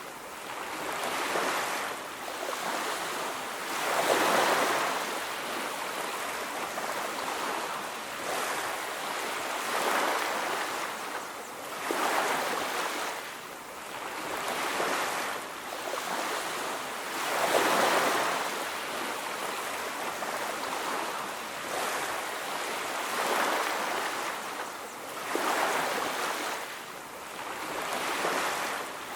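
Ocean surf on a beach: waves breaking and washing in, one swell every two to five seconds, with no pauses between them.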